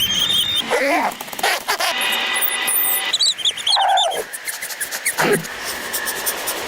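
An animal's whining cries: several short calls that fall in pitch, over a steady hiss.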